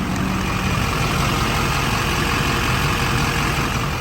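A chip truck's diesel engine idling steadily.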